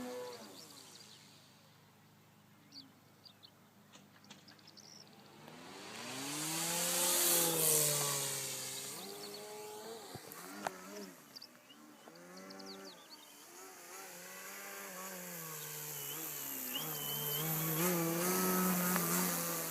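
Electric-powered Seagull Edge 540 RC model plane in flight, its motor and propeller whine rising and falling in pitch as it passes, loudest about seven seconds in and again near the end.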